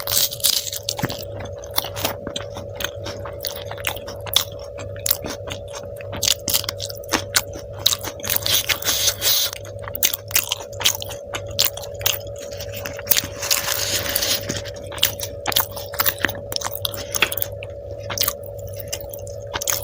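Close-miked chewing and biting of a person eating chole bhature, with irregular wet mouth clicks and smacks and denser bursts of chewing twice. A steady hum runs underneath.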